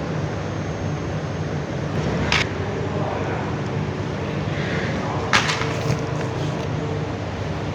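A steady low mechanical hum, with two sharp clicks about three seconds apart, typical of hand tools or parts being handled during battery assembly.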